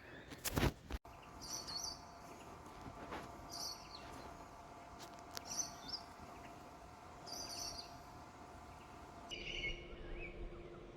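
Birds chirping in short high calls, repeated about every two seconds, over faint outdoor background noise; a single sharp knock about half a second in.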